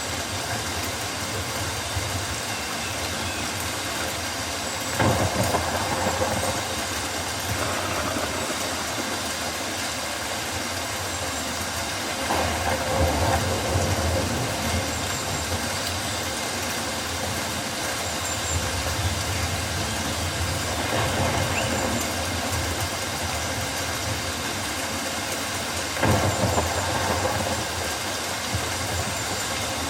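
Rainforest ambience of steady rain, an even hiss over a low rumble, swelling louder for a moment about five times.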